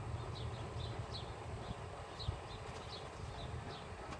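A bird chirping over and over in short high chirps, about two a second, over a steady low rumble.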